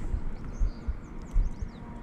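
Several short, quick chirps, likely from birds, over a few irregular low, dull knocks.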